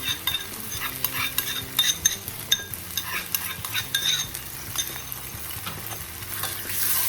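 Vegetables and chilli sauce sizzling in a hot pan, stirred with a metal utensil that scrapes and clicks against the pan several times a second; the sizzle grows steadier and louder near the end.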